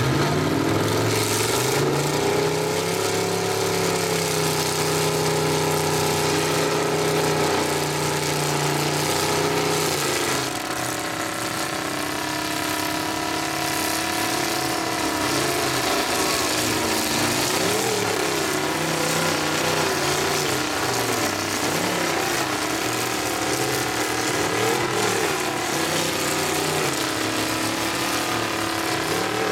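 Truck engines running at high revs under heavy load as two 4x4 trucks pull against each other in a tug of war. The engine pitch holds steady for about the first ten seconds, then wavers up and down for the rest of the pull.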